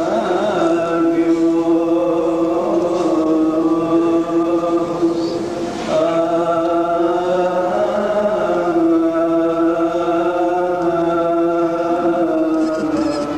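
Coptic Orthodox liturgical chant sung by a priest: long, drawn-out notes held and slowly ornamented, with a brief break for breath about six seconds in.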